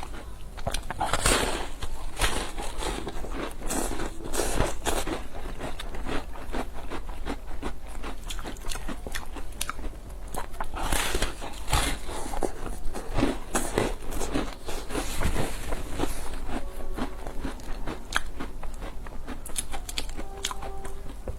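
Close-miked eating: a person biting and chewing food, with many crisp crunches and wet chewing clicks in quick, irregular succession.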